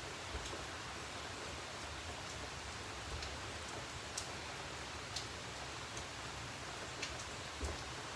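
Steady rain falling, an even hiss, with a few scattered sharp taps and a couple of soft thumps.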